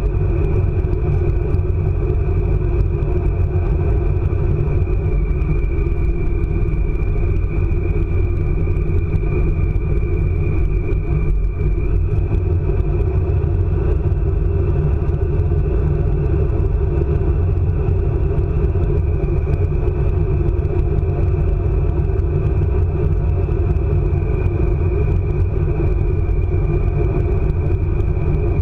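ICE high-speed train running at speed: a steady, loud rumble of wheels on track, with a high whine that drifts slightly in pitch.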